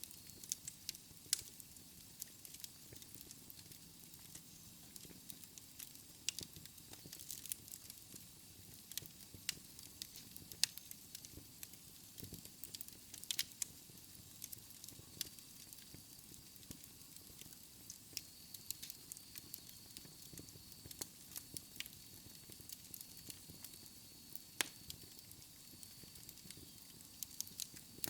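Wood fire burning in a fireplace: logs crackling and popping at irregular intervals over a soft hiss of flames. A faint thin high whistle joins about halfway through.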